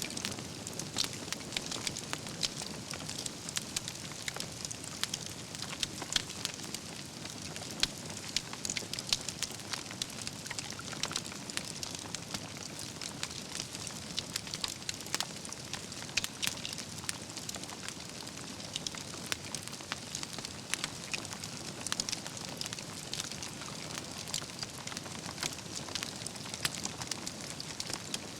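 Wood campfire burning: a steady hiss of flames with dense, irregular crackles and pops from the logs throughout.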